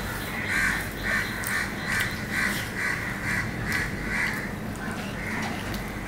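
A bird calling over and over, about two or three short calls a second, with a brief break a little past the middle. Under it are soft clicks of fingers mixing rice and greens on a steel plate.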